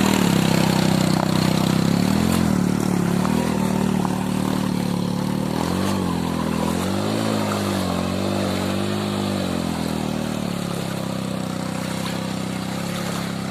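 Motorcycle engine running, its pitch rising and falling several times as the throttle is worked, over a steady hiss.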